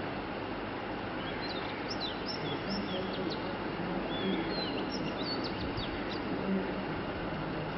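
Small birds chirping in short, quick calls, in two spells, over a steady background rumble.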